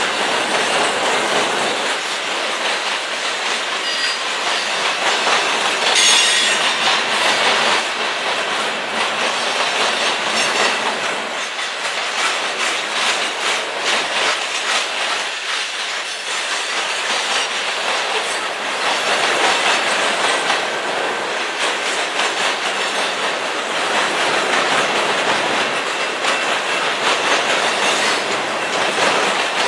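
Continuous rattling, clattering rolling noise of a moving vehicle, with a brief high screech about six seconds in.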